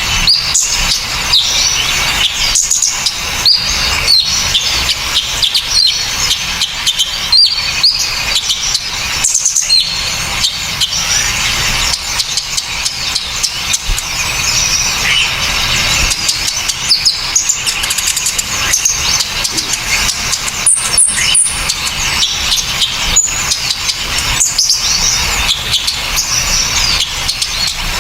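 Small songbirds chirping and trilling in a dense, continuous stream of sharp, high-pitched notes with no pauses.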